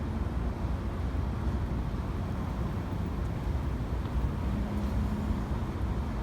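Steady low rumble of city road traffic, with a faint engine hum rising briefly about four and a half seconds in.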